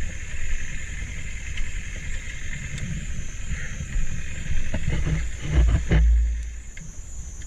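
Vehicle rolling slowly into a parking spot, its low rumble mixed with wind buffeting the microphone, swelling to its loudest about six seconds in, with a steady high-pitched drone throughout and a few faint knocks.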